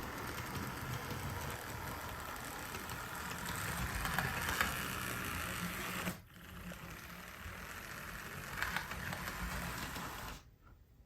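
Model railway locomotive running along track: a steady mechanical whirr of its motor and gears, with wheels clattering on the rails. The sound drops briefly about six seconds in and stops shortly before the end.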